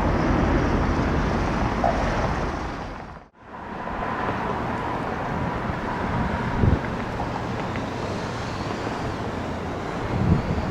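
Airliner jet engine noise, a steady rumble. It cuts out sharply about three seconds in and picks up again as the next airliner's engine noise, with a faint steady whine in it.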